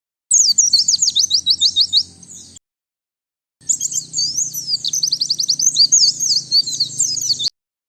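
White-eye (pleci) singing: two long bursts of rapid, high, twittering notes separated by about a second of silence, the second burst longer. This is the kind of clean recorded song used as a lure call and as a song tutor for caged pleci.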